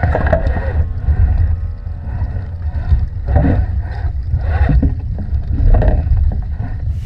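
Wind buffeting the microphone with a heavy, irregular low rumble, and water splashing and sloshing against a sailing dinghy's hull in short surges.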